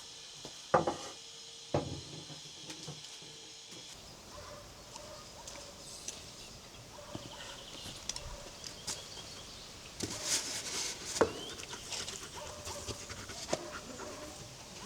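Farmyard poultry calling at intervals, with a few sharp knocks, the loudest near the start and about eleven seconds in.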